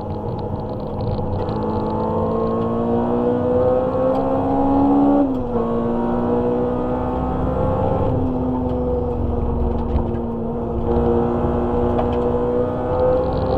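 Honda Civic EG6's four-cylinder engine under hard acceleration, heard from inside the cabin: the revs climb for a few seconds, drop sharply about five seconds in, then climb slowly again.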